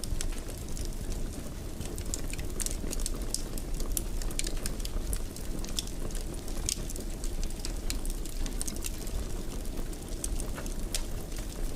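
Wood fire burning in a fireplace: irregular sharp crackles, several a second, over a steady low rumble of flames.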